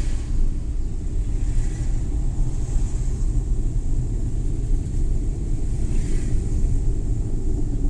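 Suzuki Every Wagon (DA64W) with its 660 cc three-cylinder engine driving along, a steady low rumble of engine and road noise. A faint higher hiss swells briefly a couple of times, about two and six seconds in.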